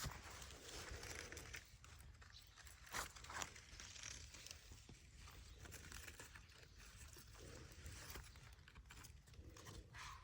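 Faint rustling and crunching of footsteps through garden plants, with two sharper clicks about three seconds in.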